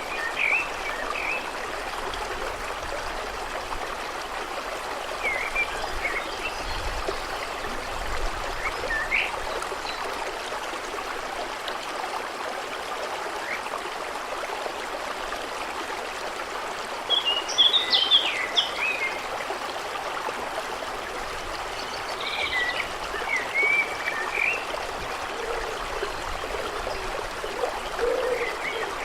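A stream running steadily over stones, with songbirds giving short chirps now and then, a busier run of them a little past the middle.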